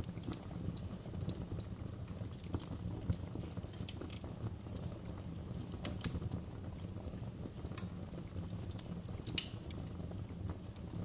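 Wood fire crackling in a fireplace: irregular snaps and pops over a low, steady rumble of flames.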